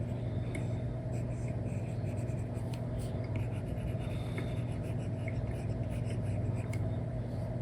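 Stylus nib scratching and tapping on an iPad screen covered with a paper-like film, in short strokes and light clicks over a steady low hum.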